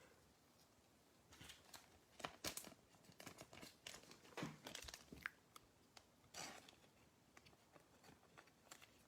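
Faint crinkling and tearing of a trading-card pack wrapper being opened, with a run of short crackles and rustles as the cards are handled.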